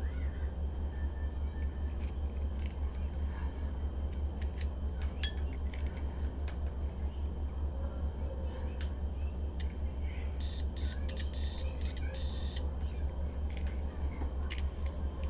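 A run of short, high electronic beeps on one pitch, ending in a longer beep, about two-thirds of the way through. Under it runs a steady low electrical hum, with scattered light clicks.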